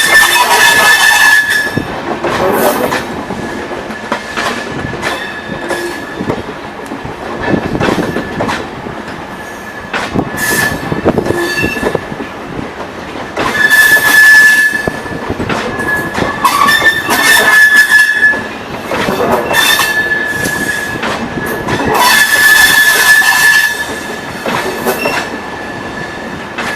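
Rajdhani Express passenger train rolling past, its wheels knocking over rail joints and points and squealing on and off in a thin high tone, loudest in several surges a few seconds long.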